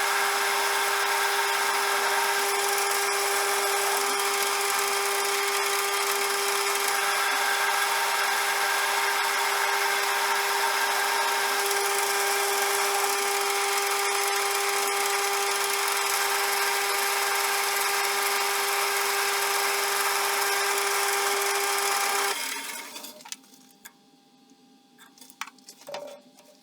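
CJM360 benchtop metal lathe running steadily with a gear-and-motor whine, then switched off about 22 seconds in and spinning down over a second or two. A few faint knocks follow in the quiet.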